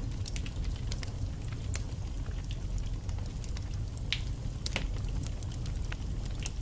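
Wood fire burning in a fireplace: a steady low rumble of flames with frequent irregular crackles and sharp pops of burning logs, a couple of louder pops about four to five seconds in.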